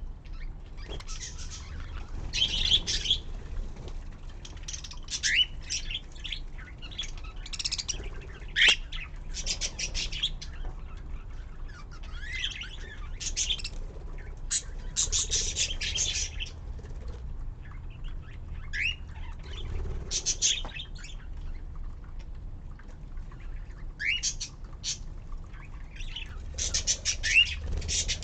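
Budgerigars chirping and chattering in short bursts, with several quick rising whistled calls scattered through.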